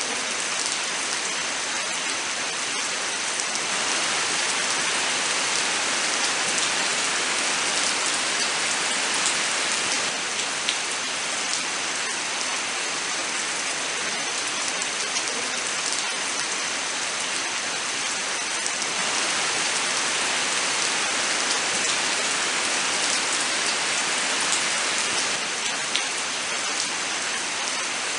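Steady rain falling in a forest: a dense, even hiss with scattered sharper drops.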